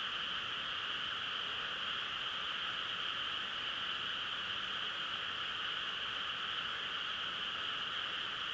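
Steady chorus of many frogs calling together, blending into a continuous, even drone, over a faint hiss of rain.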